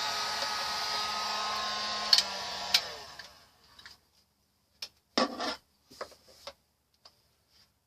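A small hand-held electric blower of the hair-dryer kind runs steadily with a whine. It is switched off with a click about two to three seconds in and winds down. A few light knocks and clicks follow.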